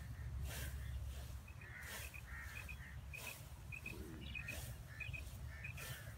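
A small bird calling in short quick pairs of chirps, about two pairs a second, over a steady low rumble and a rustling hiss that comes and goes.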